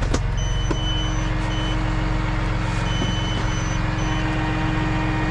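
A vehicle engine idling steadily while an electronic warning beeper sounds in short, irregular runs of high tones. There is a single click just after the start.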